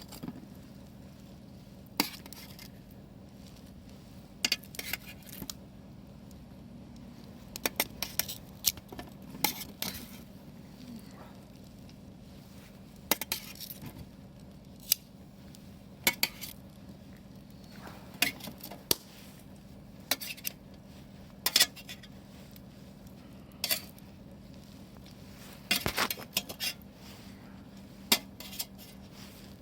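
Utensils clinking and tapping against dishes or a pot in scattered, irregular knocks, sometimes a few in quick succession, over a faint steady hum.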